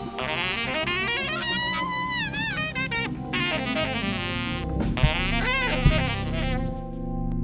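Live jazz-soul band: a tenor saxophone plays a lead line with bends and vibrato over keyboard, bass and drums, with a couple of drum hits. Near the end the band settles on a held, sustained chord.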